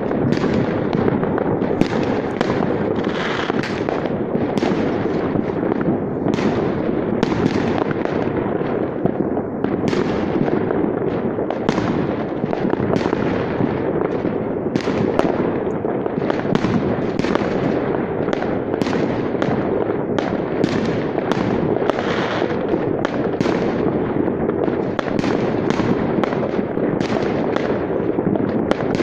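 Many fireworks going off at once: a continuous din of overlapping bangs and rumble, with sharp cracks several times a second.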